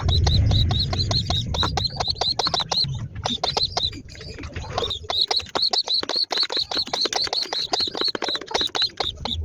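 Baby pigeon (squab) giving rapid, high, squeaky begging peeps while being fed, about six a second without a break. A low rumbling noise runs under the peeps for the first three seconds.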